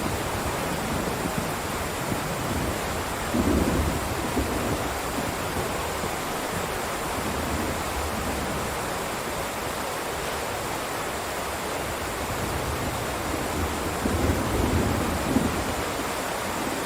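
Heavy rain downpour, a steady hiss, with low rumbles swelling briefly about three seconds in and again near the end.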